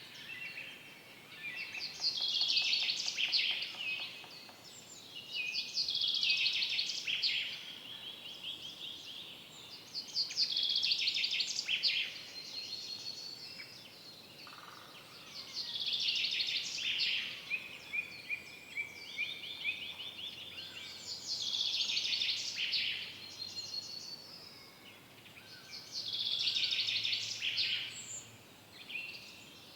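A songbird singing the same short trilled phrase over and over, each about two seconds long and stepping down in pitch, about every four to five seconds, over a faint steady hiss of forest ambience.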